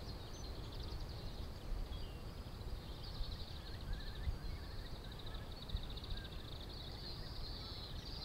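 A bird singing a high, fast trill that runs on and off, over a low rumble of wind on the microphone.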